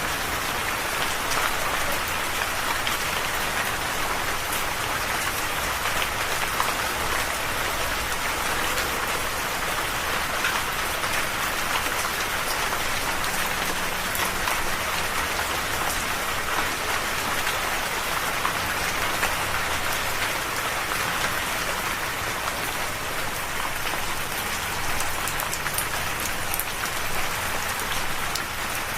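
Steady rain falling, a continuous even patter with many fine, close drop impacts.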